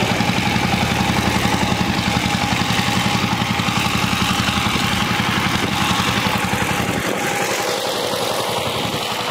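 A small engine running steadily at idle, with an even pulsing drone that eases a little about seven seconds in.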